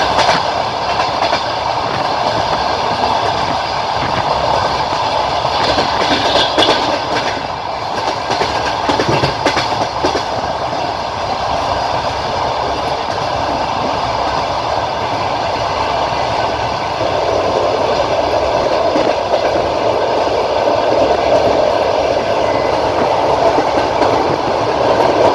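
Passenger train carriage rolling along the line, wheels clattering over the rail joints with a steady rumbling noise; a few sharper clacks come in the first half, and the running noise grows a little louder in the second half.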